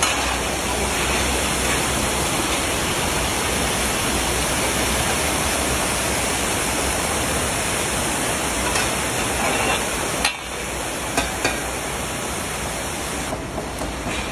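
Carrots frying in hot oil in a huge kazan for plov, a steady loud sizzle, with a few short knocks in the last few seconds.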